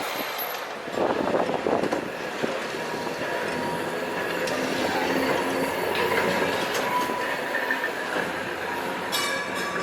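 Nostalgic heritage tram running along its street rails, the rail noise growing louder about a second in.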